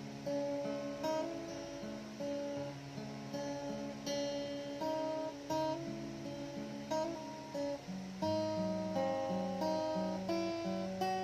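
Acoustic guitar playing a song intro, picked and strummed chords ringing one after another, with a lower bass line coming in about eight seconds in.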